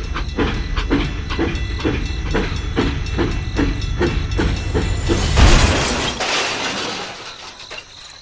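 A small machine clattering rhythmically, about three knocks a second over a low rumble, then a rushing hiss swells about five seconds in and fades away.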